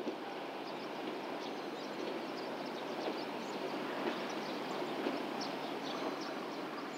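JR Kyushu 713 series electric local train running along the track in the distance, a steady rushing rail noise.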